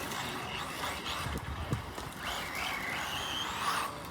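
Electric 1/10-scale RC buggies running on a dirt track, their motors giving high whines that rise and fall as they speed up and slow down.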